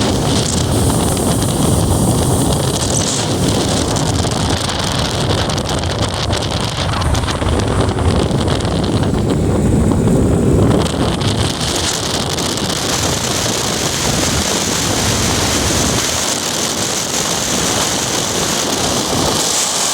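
Mercury Optimax 200 V6 two-stroke outboard running on a bass boat underway, under heavy wind buffeting on the microphone and hull and water noise. The engine is running after new plugs and a cleaned VST filter cured a high-RPM miss.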